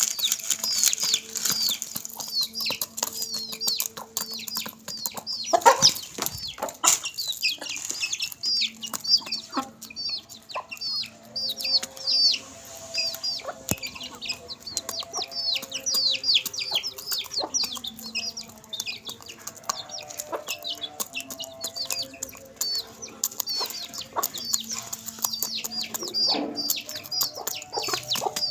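Chicks peeping rapidly in high, short, falling chirps, over low clucks from the adult chickens and many crisp clicks of beaks pecking at papad. A louder burst of noise comes about six seconds in.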